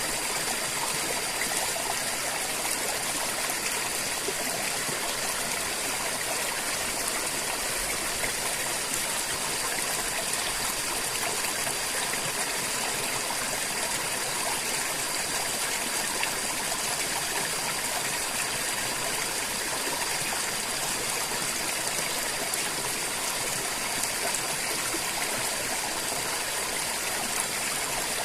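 River water flowing and splashing over rocks, a steady, even rush.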